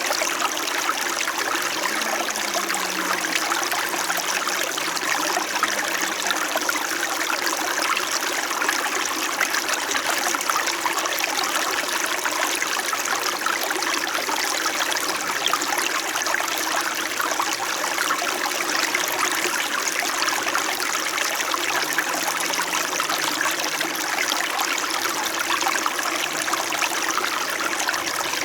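Small winter mountain stream flowing with a gentle, continuous babble of water, steady throughout.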